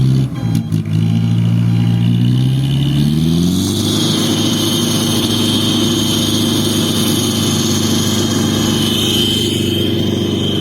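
4x4 truck engine revving up over the first few seconds, then held at high revs with a high whine on top, straining under load as it tries to tow another truck backward out of a mud hole.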